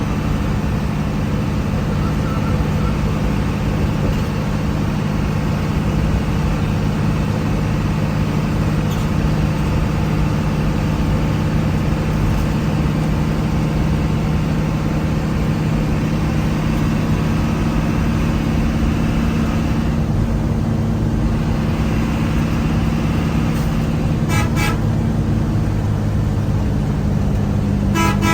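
Steady drone of a road vehicle's engine and road noise. Near the end a vehicle horn sounds twice in clusters of short, rapid toots.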